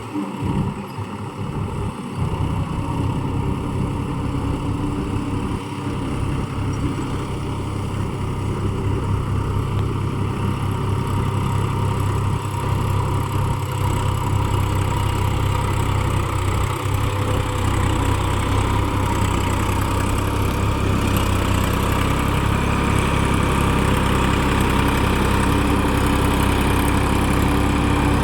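Massey Ferguson 254 4WD tractor's diesel engine running steadily while working a field, growing gradually louder.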